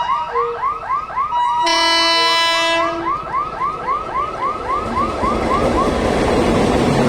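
Diesel locomotive sounding one horn blast of about a second and a half, starting about 1.7 s in, over a warning signal chiming about three times a second. The signal stops near the end as the train's rumble and wheel clatter grow louder.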